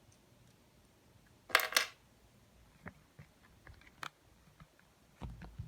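Plastic LEGO Technic pieces clicking and clattering as they are handled: a short burst of rattling clicks about a second and a half in, a few light ticks after it, and handling noise with more clicks near the end.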